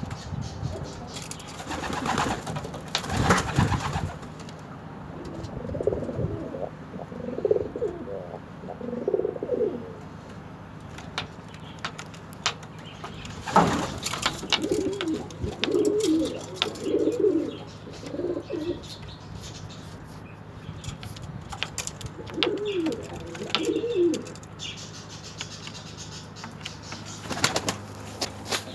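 Pigeons cooing in three bouts of low, rolling coos. A few brief sharp noises fall between the bouts.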